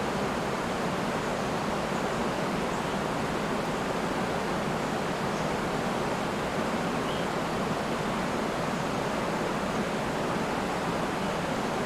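Steady rushing of a river and waterfall, an even unbroken water noise, with a few faint high bird chirps in the background.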